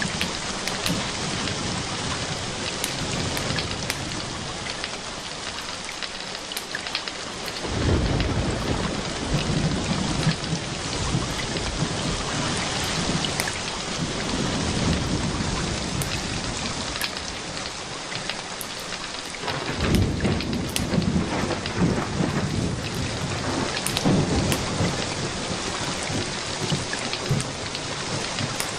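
Steady rain falling, with two rolls of thunder rumbling in, one about 8 seconds in and one about 20 seconds in, each lasting several seconds.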